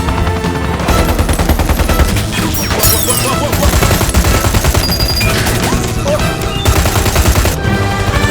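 Rapid bursts of gunfire over the rapid low chop of a helicopter, mixed with a dramatic action-film score.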